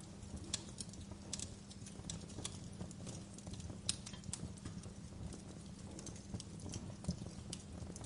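Wood fire burning in a fireplace, crackling: irregular sharp pops and snaps over a low steady rumble.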